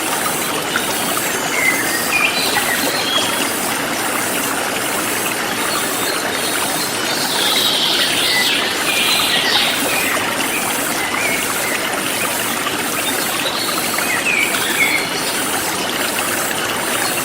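Forest stream flowing steadily, with songbirds chirping on and off over it, a busier burst of calls about halfway through, and a high insect buzz pulsing about twice a second.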